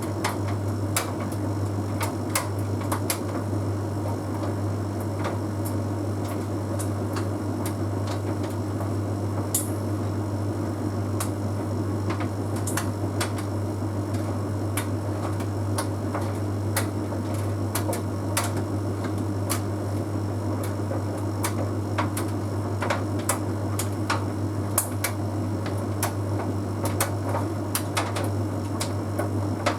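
Bosch Series 6 heat pump tumble dryer running mid-cycle: a steady low hum with irregular light clicks and taps from the tumbling load.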